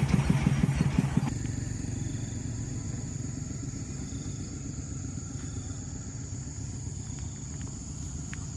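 Engine running loudly with a pulsing low sound for about a second, then the sound drops off suddenly to a quieter low rumble with a steady high-pitched whine.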